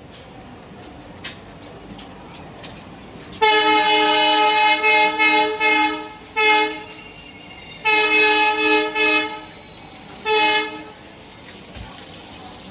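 Indian Railways WAG-9 electric locomotive's multi-tone horn sounding: one long blast, a short one, another long blast and a last short blast. Between the blasts the train runs on the rails with faint scattered clicks.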